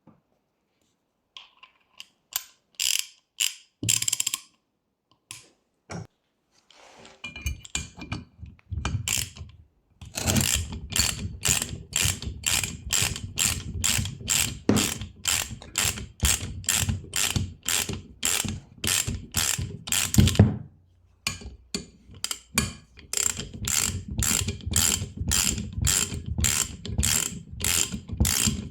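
Hand ratchet wrench being worked, its pawl clicking: a few scattered clicks at first, then a steady run of about two clicks a second, with a short pause about two-thirds of the way through.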